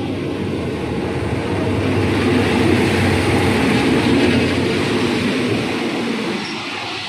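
Train running on rails: a steady rumble that swells to its loudest in the middle and then eases off.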